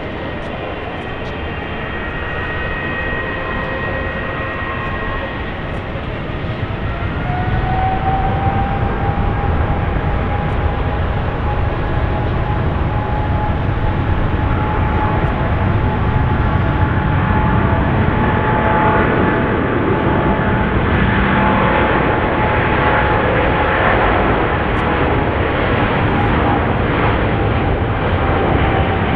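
Boeing 777-300ER's GE90 turbofan jet engines on takeoff: a wide rumble with steady whining tones. The whine rises about seven seconds in and the noise grows louder and stays loud.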